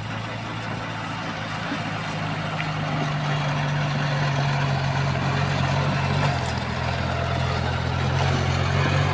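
Heavy diesel engine of earthmoving machinery running steadily under a broad rattling noise, growing a little louder, with its low hum shifting in pitch about six seconds in.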